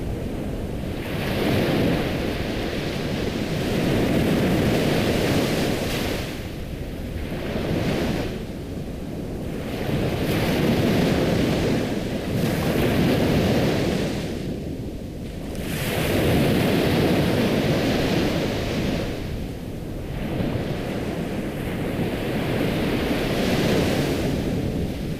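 Ocean surf: waves rushing in and washing back, the noise swelling and fading every few seconds.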